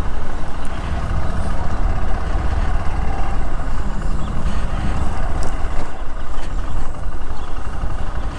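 Motorcycle being ridden, its Bajaj Pulsar NS160 single-cylinder engine running under a steady, gusty low rumble of wind on the microphone.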